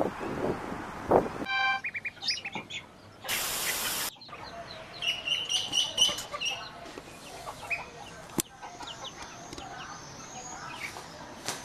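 Domestic fowl calling across a run of short clips: harsh calls at first, a second-long burst of hiss a few seconds in, then rapid high-pitched peeping of young birds.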